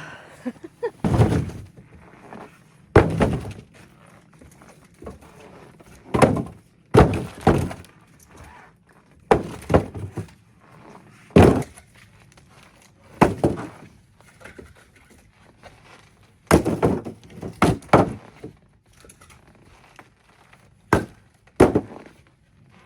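Split firewood being handled and stacked: a dozen or so heavy wooden thunks at irregular intervals, some in quick pairs, as pieces are dropped onto a pile.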